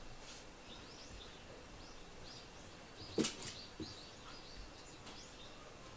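Birds chirping faintly, short repeated notes. A sharp knock about three seconds in, with a softer one just after.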